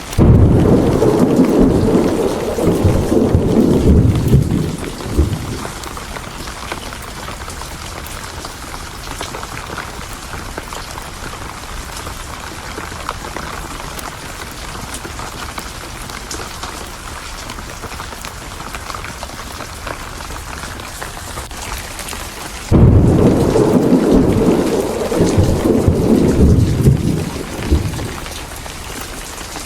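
Steady rain with two rolls of thunder. Each roll starts suddenly and rumbles for about five seconds: one right at the start, the other near the end.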